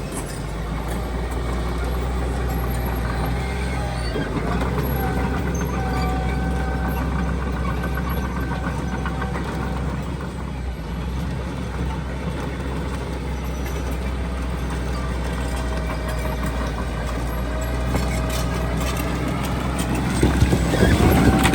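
Heavy diesel construction machinery running steadily with a low engine hum and a faint wavering whine, growing louder near the end.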